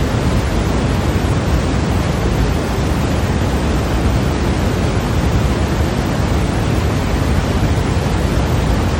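Steady white noise for sleep: an even, unchanging rushing hiss, heavier in the low end than the highs.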